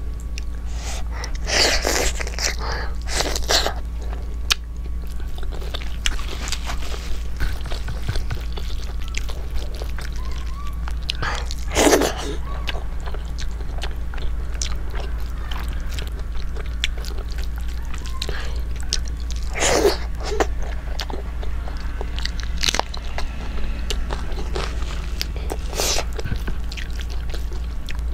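Close-miked chewing and wet mouth sounds of someone eating rice and chicken curry by hand, with scattered smacks and crunches and a few louder bursts, over a steady low hum.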